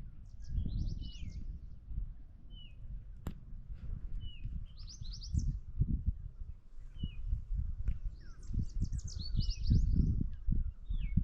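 Birds singing: a short, falling whistled note repeats about every two seconds, mixed with quick runs of rapid high notes. Underneath is a low, uneven rumble that rises and falls and is the loudest sound.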